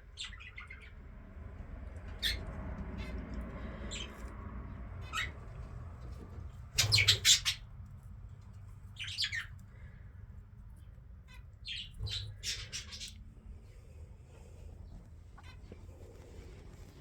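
Small aviary birds calling in short, high chirps scattered through, with a loud burst of squawks about seven seconds in and further clusters of calls a couple of seconds and five seconds later.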